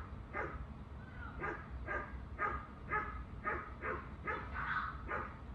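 Dog barking over and over, about two barks a second, in a steady run.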